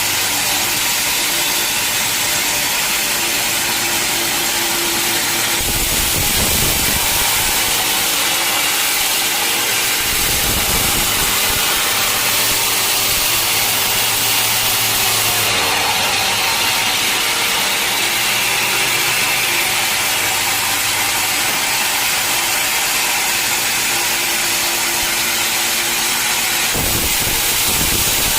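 Sawmill running and sawing through teak wood: a steady mix of engine and blade noise. The sound changes abruptly a few times, around 6, 10, 15 and 27 seconds in.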